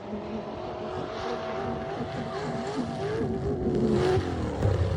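A car's engine running hard under throttle, its pitch wavering up and down as it revs.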